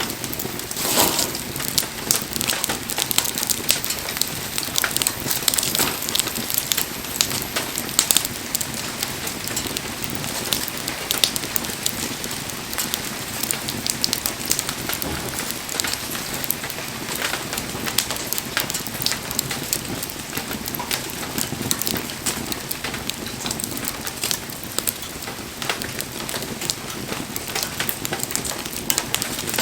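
Wood bonfire burning, with the firewood crackling and popping in many small, sharp snaps over a steady soft hiss.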